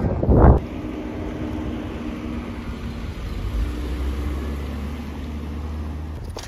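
Mercedes-Benz CLS (C219) 3.5-litre V6 driving past at low speed and moving off: a steady engine hum with a low rumble that grows over the last few seconds. A brief loud rush comes just at the start.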